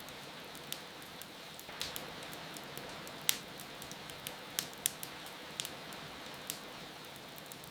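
Wood fire crackling with irregular sharp pops, one louder than the rest a little past the middle, over a steady hiss of rain.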